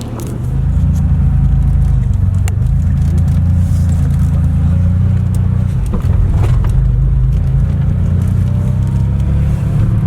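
Car engine running steadily, a deep low rumble that swells about half a second in and then holds.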